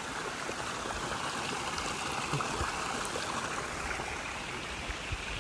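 Steady rush of falling and running water from a waterfall and its stream pouring into a pond.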